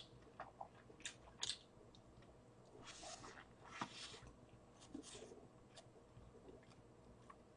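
Faint chewing of a burger: scattered soft mouth clicks, with a few short rustly noises about three to five seconds in.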